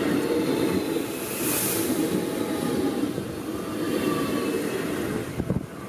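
Electric commuter train passing at close range: a steady rumble of steel wheels on the rails with a faint whine above it, and a brief high hiss about one and a half seconds in.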